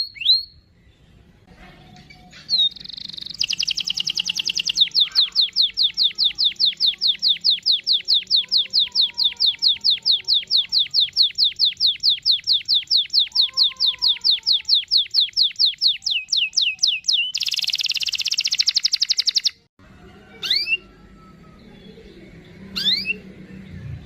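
Domestic canary singing a long rolled trill of rapid, evenly repeated notes, about six a second, which then turns into a faster buzzing roll that stops abruptly. A few single upward-sweeping chirps follow near the end.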